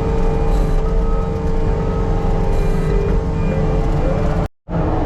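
Earthmoving machine's diesel engine running steadily under load with a steady whine over a low rumble; the sound cuts out abruptly for a moment near the end.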